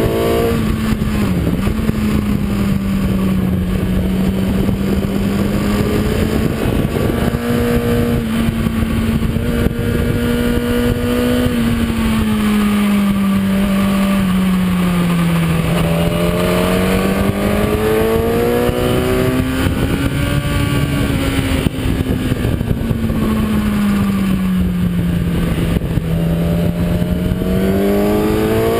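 Kawasaki ZX-10R inline-four sportbike engine at speed on track, heard from the bike over steady wind rush. The engine pitch falls and rises smoothly several times as the revs drop and build through corners, with a short dip about a second in and a climb near the end.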